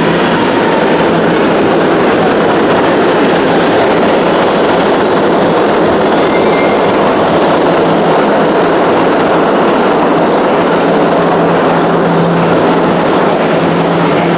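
New York City Subway R211A train running on the track: a loud, steady rumble of wheels on rail with a constant low hum underneath.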